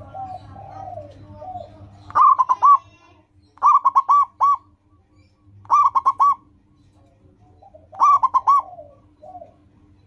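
Zebra dove (perkutut) cooing: four phrases of quick, clipped notes, each phrase lasting about half a second and coming roughly every two seconds.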